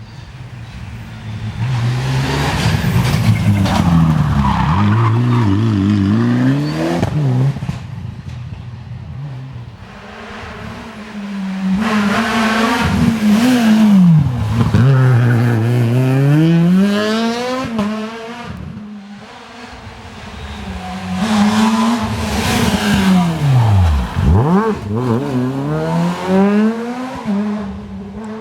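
Three rally cars passing one after another, each engine revving hard with rising and falling pitch as it changes gear. Each car grows loud as it nears and fades as it goes by.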